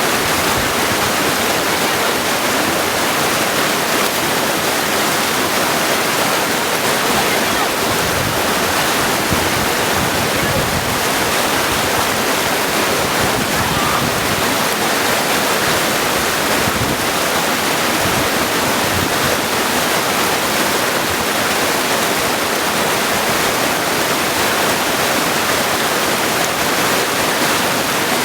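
Mountain creek rushing and splashing over stones, a steady, full water noise.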